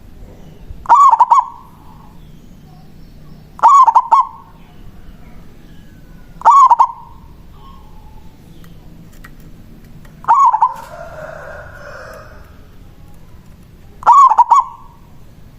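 A local zebra dove (perkutut) singing its cooing song: five short phrases of about half a second each, spaced three to four seconds apart.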